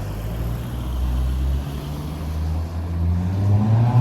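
A car engine running close by, low and steady, its pitch rising and getting louder near the end as it accelerates.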